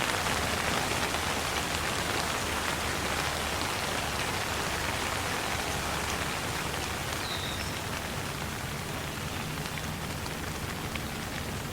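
Steady rain falling, with scattered individual drops ticking through the hiss; it eases slightly toward the end.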